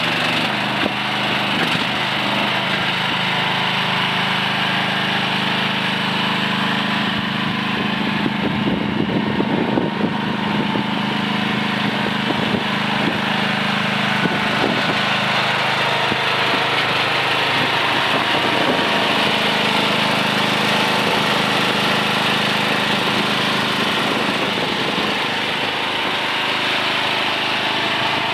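Small engine of a Landhero LDH-KN16 mini excavator running steadily, with a spell of rattling knocks about a third of the way in and a few more later.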